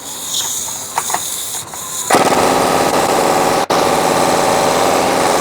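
A few handling clicks and knocks, then about two seconds in a budget Walmart impact wrench starts hammering continuously, with one momentary break. It is trying to break loose a seized, rust-frozen rear suspension tie-rod fastener.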